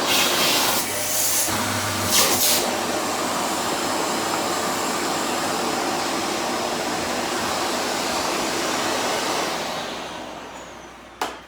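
Vacuum cleaner running with a steady rushing hiss, with two brief louder rushes in the first few seconds, then spinning down after being switched off about ten seconds in; a sharp click follows near the end.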